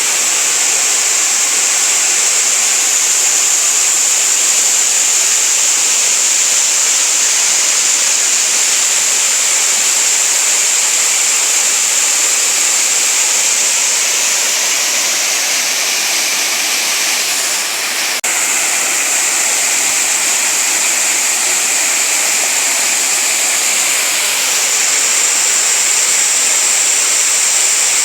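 Waterfall water falling and rushing in a loud, steady hiss, with a brief dip and a single click about two-thirds of the way through.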